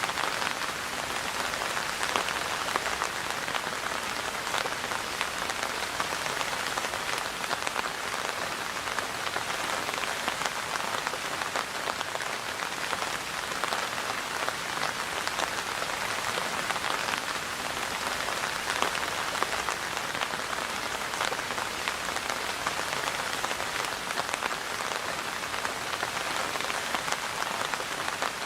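Steady rain falling and pattering on a surface, a dense even patter of many drops with no let-up.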